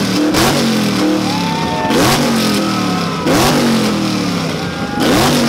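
Chevrolet Camaro's engine revved hard four times; each rev climbs quickly and then falls away over about a second.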